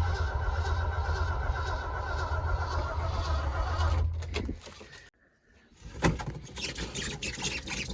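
1971 Ford Highboy truck's starter cranking the engine over on a cold start without it firing, the weak battery dragging. It stops about four seconds in, and after a short pause irregular knocks and rattles follow.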